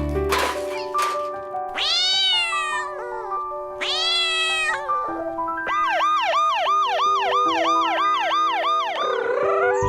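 Two drawn-out cat meows over background music, followed by a quick run of about a dozen short rising-and-falling calls, about three a second.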